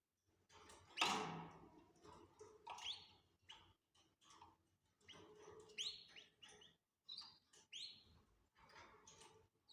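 Canaries giving short chirping calls, many quick upward-sweeping notes in irregular succession, with a sharp click about a second in.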